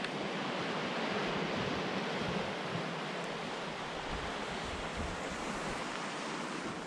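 Steady wash of sea surf breaking on the shore, a continuous hiss that swells slightly and eases.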